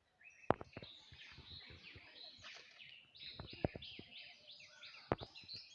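Birds chirping in a dense chorus of short, high, falling notes, one series repeating quickly in the middle. A few sharp clicks cut through, about half a second in, near four seconds and just after five seconds.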